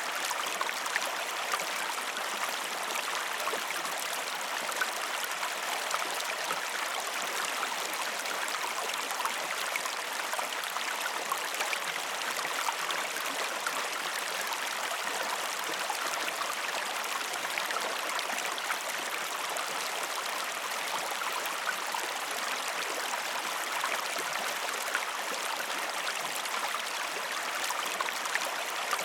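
Waterfall: falling water rushing in a steady, even hiss, flecked with fine splashes and droplets.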